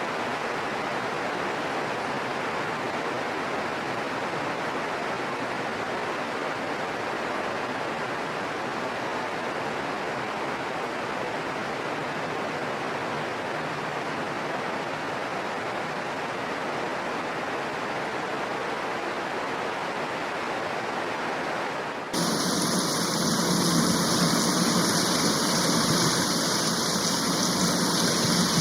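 Steady rainfall, an even hiss. About 22 seconds in it cuts abruptly to a louder, brighter hiss.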